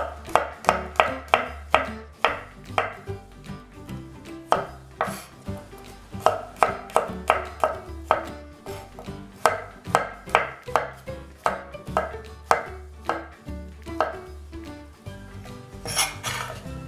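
Chef's knife slicing garlic cloves on a bamboo cutting board: runs of quick taps of the blade hitting the board, about four a second, with short pauses between runs. Near the end the blade scrapes briefly across the board.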